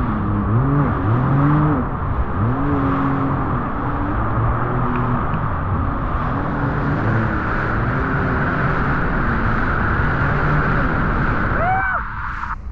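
Jet ski engine running under throttle on the water, its pitch rising and falling as the rider works the throttle, over the rush of wind and water. Near the end the low engine note drops away suddenly and a rising whine is left.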